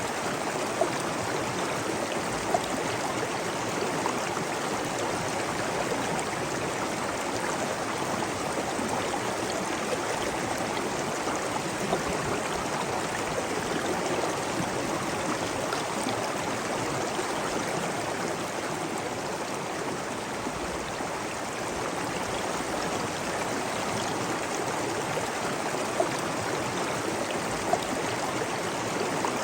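Water rushing and flowing steadily, as from a waterfall and stream, with a few short sharp ticks now and then.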